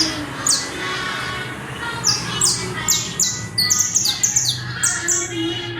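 Saffron finch (Colombian canario criollo) singing loud and clear: a string of sharp, high, downward-sweeping notes that come faster around the middle, then slow again.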